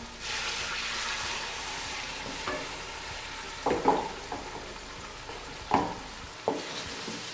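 Water poured into hot oil and chicken in a metal karahi sets off a sudden loud sizzle that fades over the next couple of seconds into a steady frying sizzle. A wooden spoon stirs the pan, knocking against its side a few times about four and six seconds in.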